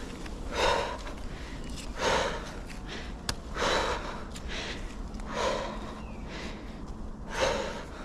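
A person breathing hard with exertion: a heavy breath about every second and a half to two seconds, with a few faint clicks between.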